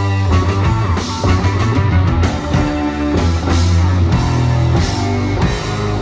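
Rock band playing live: guitar over a heavy bass line and drums.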